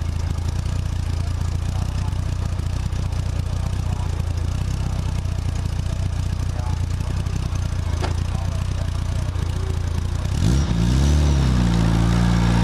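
1957 Lotus Seven S1's engine idling steadily at the hillclimb start line, then revved up about ten seconds in and held at higher revs for the launch.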